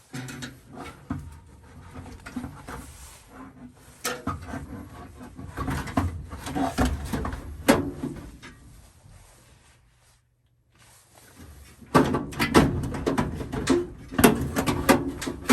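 Irregular knocks, clicks and rattles of things being handled and moved, like furnace parts or panels being worked on. The sound nearly cuts out for a moment about two-thirds through, then comes back as louder, busier knocking.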